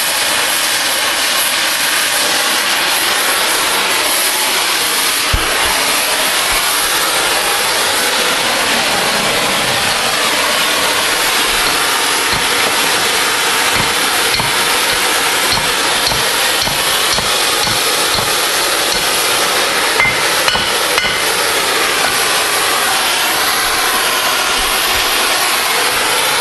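Oxy-fuel cutting torch hissing steadily as it flame-cuts through steel railroad rail, with a few sharp pops now and then.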